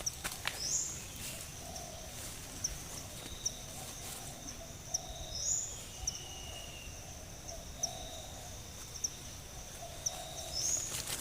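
Forest ambience with a bird calling in short, low, hoot-like phrases that repeat every second or two. Behind it runs a steady high-pitched tone with regular faint ticks, and now and then a quick rising high call.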